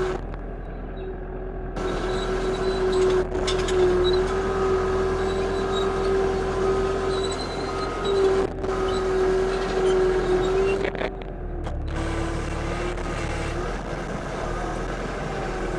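Frontier OS31 bandsaw mill's engine running steadily while the band blade cuts through a red oak log. The engine's pitch sags a little about eleven seconds in, as if under load.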